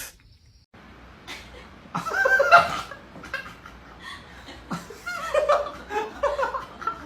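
People laughing, loudest about two seconds in, then in shorter bursts of chuckling.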